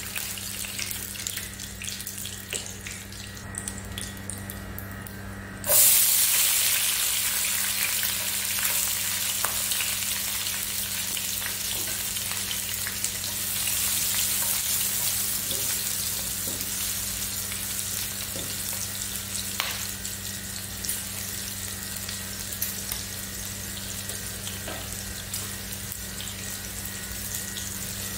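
Hot oil sizzling in a wok; about six seconds in it suddenly flares into a loud sizzle as green chillies and garlic hit the oil, then settles into steady frying crackle with a spatula stirring.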